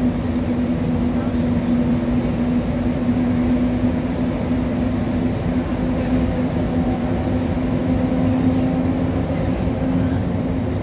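Montreal Metro rubber-tyred train running through the tunnel, heard from inside the car: a steady rumble with a constant motor hum.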